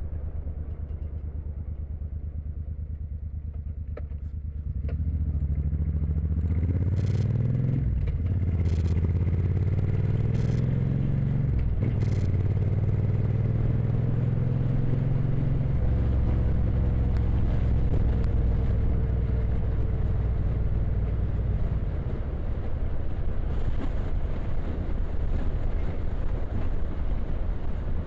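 Motorcycle engine under way: about five seconds in it speeds up, its pitch climbing, dropping back twice as it shifts up a gear, then it runs steadily at cruising speed under wind and road noise.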